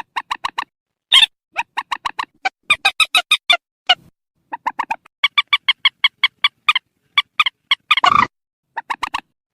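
Purple swamphen calling: runs of short, clipped, nasal notes, about five or six a second, broken by brief pauses, with one harsher screech about eight seconds in. This is the swamphen's shrill 'ré' call, used as a playback lure to draw swamphens in at night.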